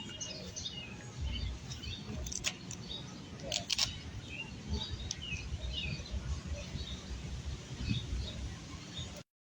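Small birds chirping on and off over a low outdoor rumble, with a couple of sharp clicks in the first half. Near the end the audio cuts out abruptly to dead silence, a dropout of the phone's recording.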